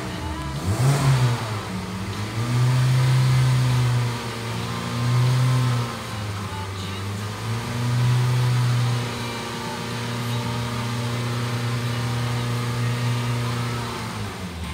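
Hyundai ix35's 2.0-litre four-cylinder petrol engine revved in Park and held at about 3,000 to 4,000 rpm. Its note swells louder three times in held steps, then runs steadier and drops back near the end.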